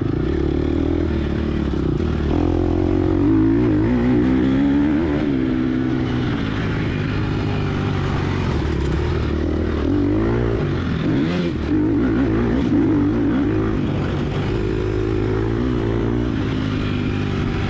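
Gas Gas EX250F single-cylinder four-stroke dirt bike engine being ridden hard, its pitch rising and falling constantly with the throttle.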